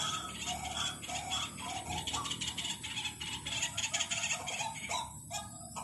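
White-breasted waterhen calls: a quick run of short repeated notes, about two to three a second, turning to sharper, clickier strokes near the end.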